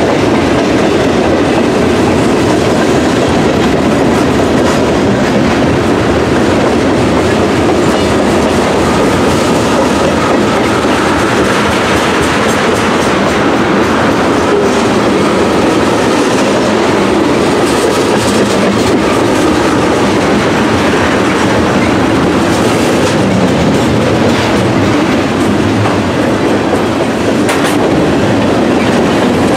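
A train rolling past, its railroad cars' wheels clacking steadily over the rail joints.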